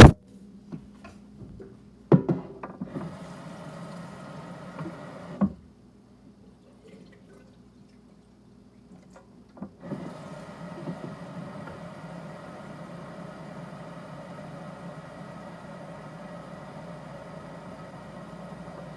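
Water from a tap running into a small watering can, with a few knocks as it is handled. A short run stops with a knock about five seconds in, then a steady fill starts about ten seconds in.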